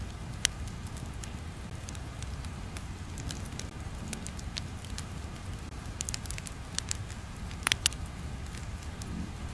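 Steady low rumbling ambience with scattered sharp crackles and pops, a small cluster of them near the end.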